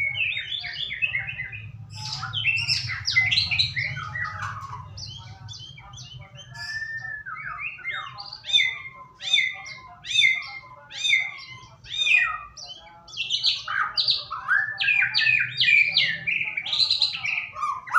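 White-rumped shama (murai batu) singing a long, varied song of rich whistled phrases, with a run of repeated down-slurred notes about two a second in the middle, over a steady low hum.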